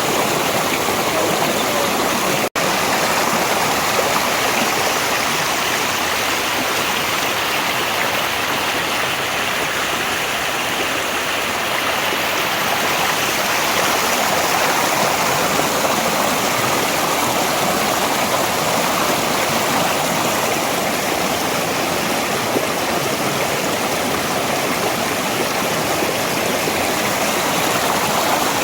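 Mountain valley stream: water rushing steadily over rocks, with a split-second dropout about two and a half seconds in.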